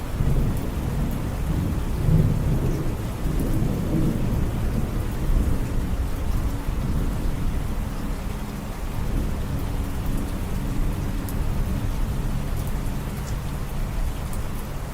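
Steady rain falling, with scattered drop ticks and a low rumble of thunder that swells in the first few seconds and then eases off.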